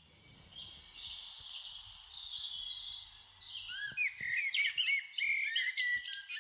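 Birdsong: several birds chirping and whistling. High, thin notes fill the first half, then a quick run of short, arching chirps.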